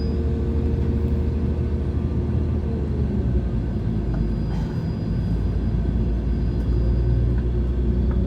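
Diesel train's engine running with a steady low rumble and hum, unchanging throughout.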